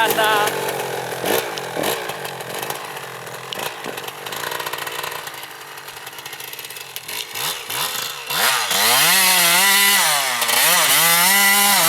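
Motocross bike engine, fainter and uneven at first, then loud from about two-thirds of the way in, revving up and down repeatedly.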